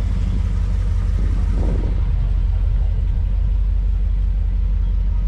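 A car engine running steadily with a loud, low rumble, and faint voices in the background.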